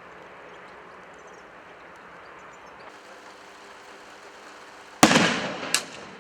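Steady background noise, then a sudden loud bang about five seconds in that dies away over half a second, followed by a second sharp crack.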